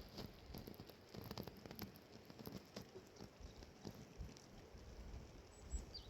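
Faint, irregular tapping and patter over a low rumble.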